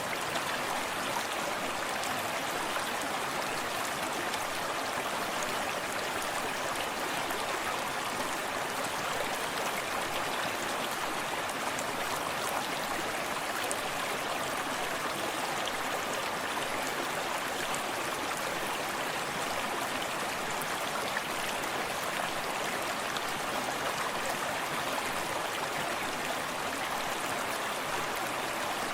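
Forest stream running steadily, water splashing and burbling over rocks.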